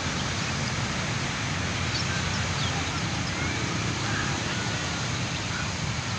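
Steady outdoor noise of wind and surf with scattered faint short bird chirps over it. The noise is the loudest part.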